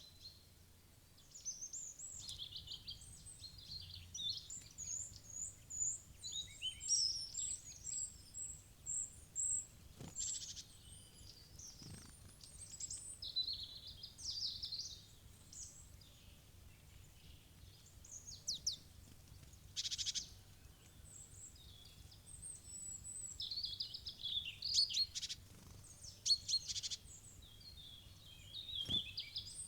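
Small wild songbirds chirping and calling, with many short, high notes from several birds overlapping. A few sharp taps sound in between.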